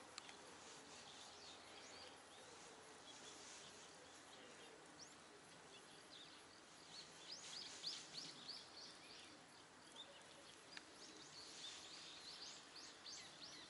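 Quiet outdoor ambience with faint bird chirps: runs of quick, high, falling calls about halfway through and again near the end.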